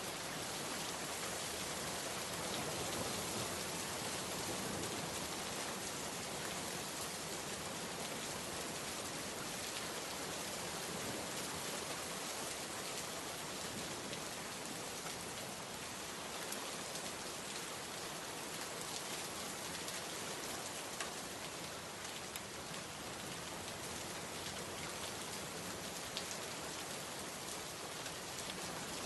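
Steady heavy rain falling and pattering on surfaces, a dense even hiss with scattered drop ticks.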